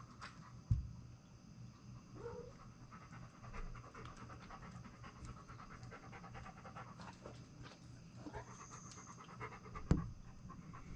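Quick, rhythmic panting breaths, with a sharp knock about a second in and a louder one near the end.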